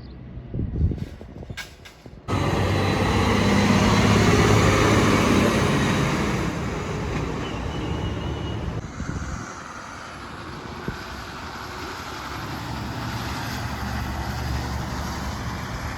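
A truck driving past, its engine humming low under tyre and road noise. It comes in abruptly about two seconds in, is loudest shortly after, and then eases off.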